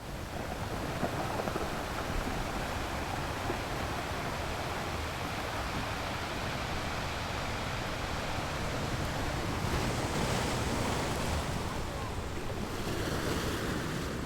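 Sea waves washing onto a sandy beach: a steady surf that swells briefly about ten seconds in and again near the end, with low wind rumble on the microphone.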